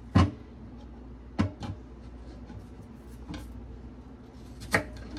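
A knife cutting an apple against a cutting board: a sharp knock just after the start, then a few lighter taps and clicks spread through the rest, over a low steady hum.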